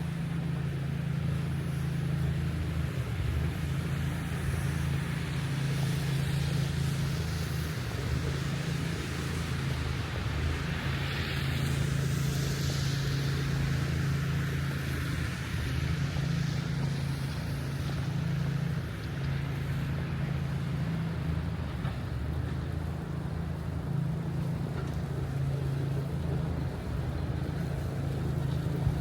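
Steady low rumble of wind buffeting the microphone over the hiss of city street traffic in a snowstorm, with a passing vehicle's hiss swelling briefly about halfway through.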